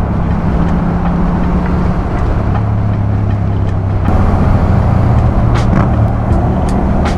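Motorcycle engine running steadily under way; about four seconds in it gets louder, and a string of sharp exhaust pops follows near the end.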